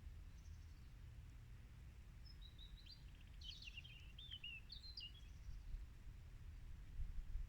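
Faint outdoor ambience with a steady low rumble, and a bird singing a quick run of high chirps and twitters in the middle.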